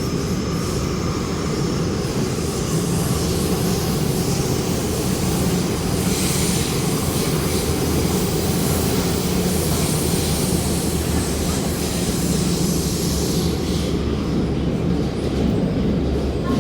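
Cabin of an MTR Rotem-built K-Train electric multiple unit running: a steady low rumble, with a brighter high hiss from about six seconds in that fades near the end.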